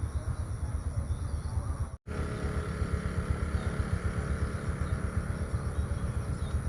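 Outdoor ambience dominated by a low, fluttering rumble of wind buffeting the microphone, with a faint steady high hum. The sound cuts out for an instant about two seconds in.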